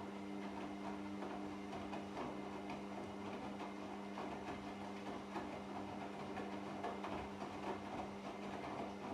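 Washing machine running with laundry in the drum: a steady motor hum under irregular churning and crackling noise from the wash.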